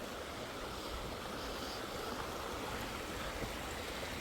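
Steady rush of flowing creek water spilling toward a waterfall.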